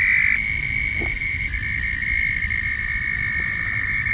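Chorus of toads trilling: several long, high, steady trills overlap at slightly different pitches, with another trill joining about a second and a half in. These are male toads' mating calls in the breeding season.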